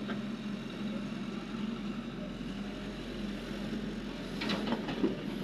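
Cat 330 excavator's diesel engine running steadily, with a run of clattering knocks near the end.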